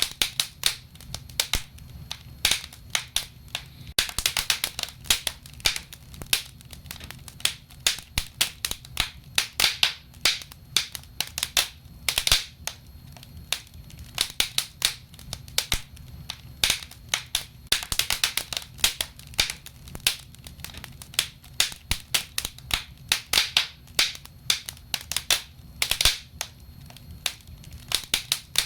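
Wood burning in a fireplace: irregular crackling and popping, with busier flurries of quick crackles at times, over a low steady rumble of the fire.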